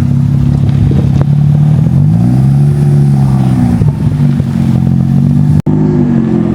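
Car engine running steadily, then revving up and easing back down about two to four seconds in. The sound drops out for an instant near the end.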